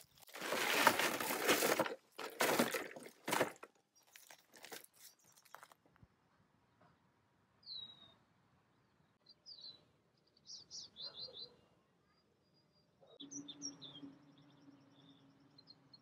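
Small birds chirping in short, scattered calls, after several loud rushing bursts of noise in the first few seconds. A steady low hum comes in near the end.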